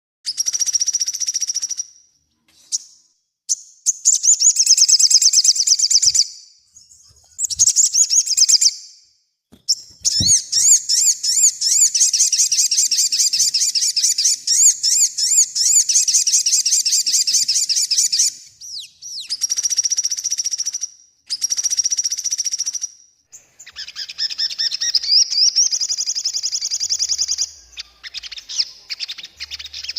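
A sogon songbird singing vigorously in rapid, warbling, trilled phrases, high-pitched and loud. The phrases come in repeated bursts with short pauses, including one long unbroken run of about eight seconds in the middle.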